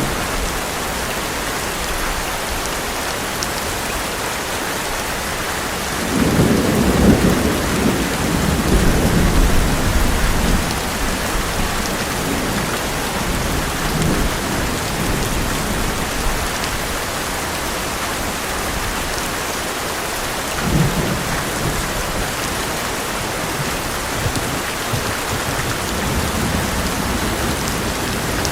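Heavy rain falling steadily on an old metal roof, with a long roll of thunder rumbling from about six seconds in for around four seconds and a shorter thunder rumble past the two-thirds mark.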